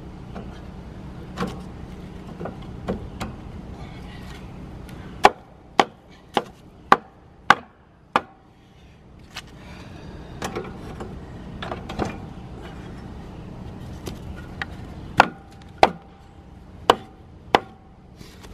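Wooden levelling blocks being knocked into place under a pop-up camper's wheel. Sharp, hard knocks come in runs: six quick blows about half a second apart, then scattered knocks and another run of four near the end.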